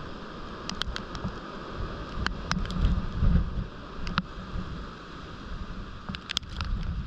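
Heavy downpour with scattered sharp ticks of hard pellets striking, which the listener takes for hail or very hard snow. Wind buffets the microphone, strongest about three seconds in.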